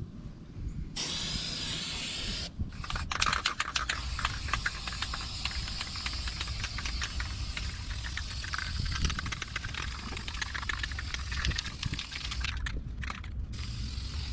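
Aerosol spray-paint can spraying in long hissing bursts, broken by short pauses about two to three seconds in and again near the end.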